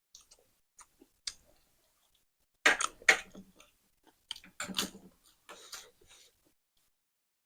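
Close-up eating sounds of spicy noodles being chewed, with scattered small clicks and louder wet, noisy bursts about three and five seconds in.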